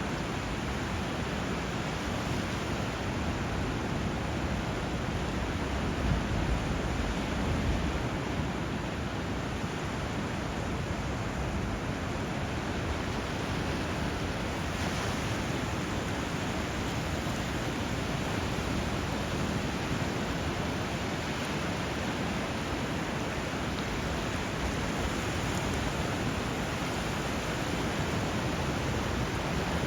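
Steady rush of water where a river runs into the sea: river flow and surf blending into one even hiss, swelling slightly about six seconds in.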